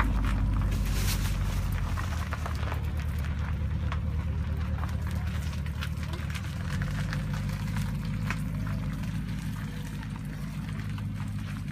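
Porsche Cayenne engine running low and steady as it tows a Stingray boat trailer, its pitch shifting about halfway through, with scattered light clicks of tyres over gravel.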